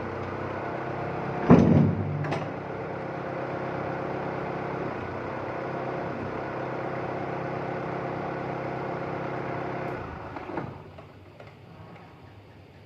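TCM 2.5-tonne forklift engine idling steadily, with a loud clunk about one and a half seconds in and a smaller knock just after. About ten seconds in the engine sound drops away.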